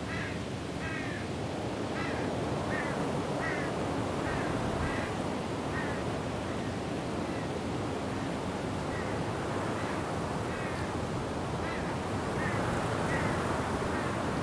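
Steady rushing wind through trees, with a bird giving a string of short, repeated calls, about one a second at first and more spaced out after about six seconds.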